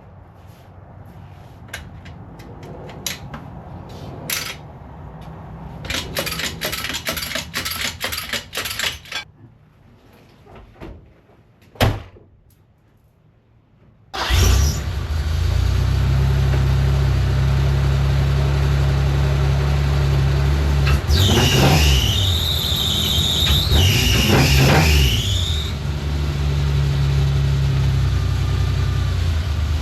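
Ford Ranger mini truck's engine starting about fourteen seconds in and then running steadily, after a stretch of scattered clicks and knocks. About halfway through its running, a high squeal sweeps up and down twice over several seconds.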